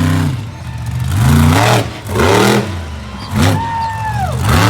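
A monster truck's supercharged V8 revving in repeated bursts, its pitch climbing and dropping four or five times as the throttle is stabbed and released. A thin whistle-like tone slides down near the end.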